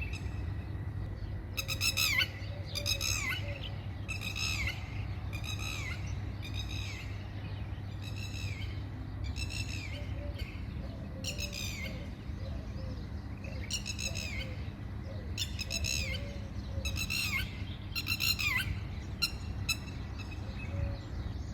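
Red-wattled lapwing calling over and over, a long run of sharp, shrill notes roughly one a second, each falling in pitch. A steady low rumble sits underneath.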